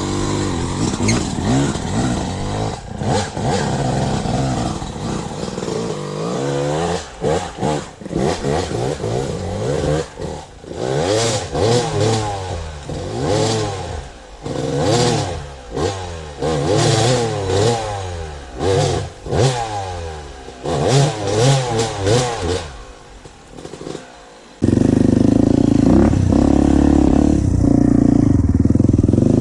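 Dirt bike engine revving up and falling back again and again as the throttle is worked, with some clatter. About 25 seconds in the sound cuts abruptly to a louder, steady low rumble.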